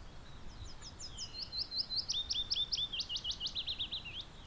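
A songbird sings one song of about four seconds, made of quick runs of repeated high notes, with each run on a different note.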